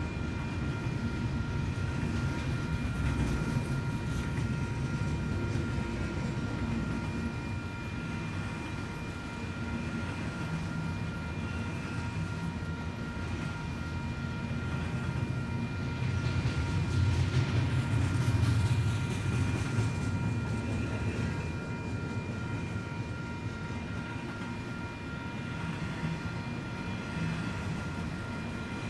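Double-stack intermodal freight train rolling past: a steady rumble of the well cars' wheels on the rails, swelling louder about two-thirds of the way through.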